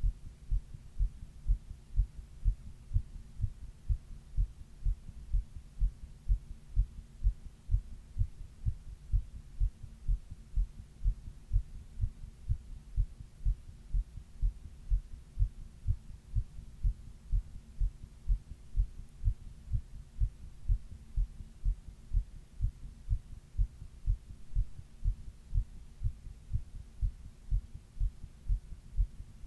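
A person's heartbeat heard close-up: a steady, even rhythm of low, dull thumps, recorded while they were running a 102 °F fever.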